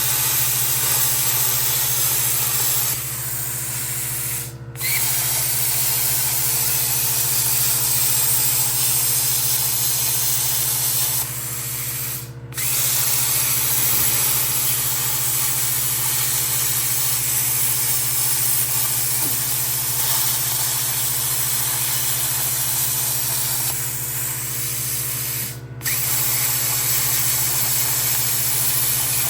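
Plasma cutter cutting through rusted sheet steel in a truck bed: a loud, steady hiss. Three times it drops to a softer hiss, cuts out briefly and starts again as the torch is stopped and restarted.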